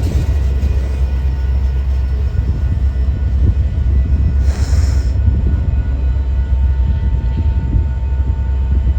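A train passing, a steady low rumble of rolling rail cars, with a brief hiss about four and a half seconds in.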